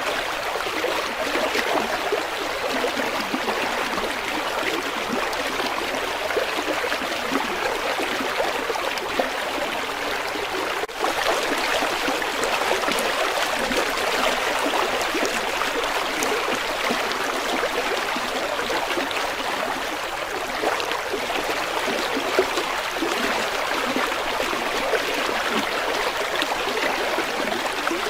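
A river flowing: a steady rushing and babbling of water. A brief cut-out about eleven seconds in is followed by a slightly louder rush.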